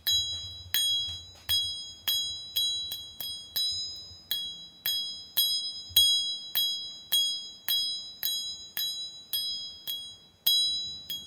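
A ringing glass vessel tapped over and over, about two to three strikes a second at uneven strength. Each tap sets off a clear, bell-like high ring that fades before the next.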